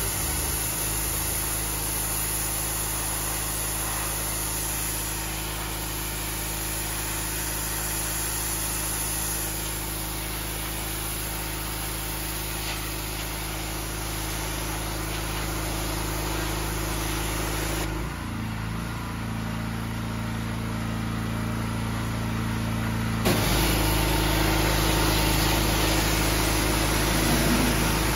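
Engine-driven pressure washer running steadily, with the hiss of its spray. For about five seconds past the middle the hiss drops away and the engine note changes, then the spray comes back a little louder.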